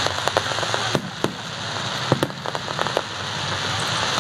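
Fireworks display with shells bursting in quick, irregular cracks and pops, thickest about two seconds in, over a steady background hiss.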